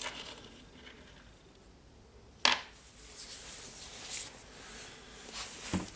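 Small metal parts of a rotary hammer's clutch assembly being handled and set down, with one sharp metallic click about two and a half seconds in and light scraping and tapping after it.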